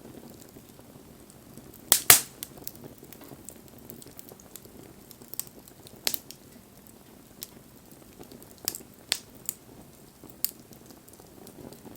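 Wood fire burning with a low rush of flames and scattered sharp pops and cracks of burning wood, the loudest a double crack about two seconds in.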